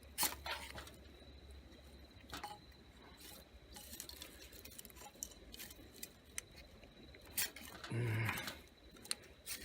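A few short metallic scrapes and clinks, spread out with pauses: a ferrocerium rod (metal match) being handled and struck to light a campfire.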